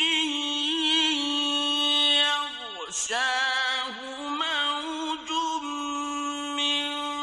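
A solo male voice chanting Quranic recitation in the melodic tajweed style. He holds long notes and decorates them with sliding, wavering turns, with short breaks near three and seven seconds in.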